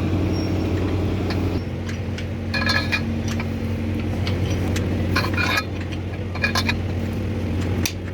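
A steady low mechanical hum with a few short metallic clinks, the loudest about two and a half seconds and five seconds in.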